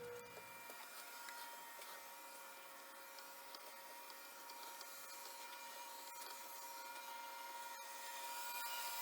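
The Sony TC-K5 cassette deck's tape transport running with a faint, steady mechanical whir that grows slightly louder near the end.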